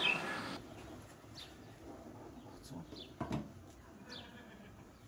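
Small bird chirping repeatedly: short, high, falling chirps, several over a few seconds. A single knock sounds a little after three seconds in.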